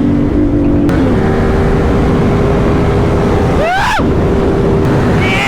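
CFMoto 450SS parallel-twin motorcycle engine running and wind rushing over a helmet microphone while riding, a steady note stepping up in pitch about a second in. A brief swooping sound comes near the end.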